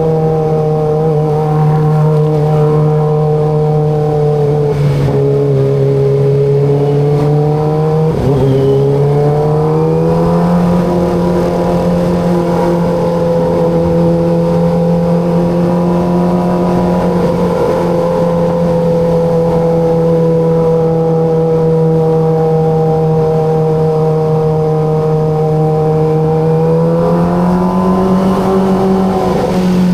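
Kawasaki ZX25RR's 250 cc inline-four engine running at steady cruising revs under way. The revs dip slightly, then rise again about eight seconds in, and climb once more near the end.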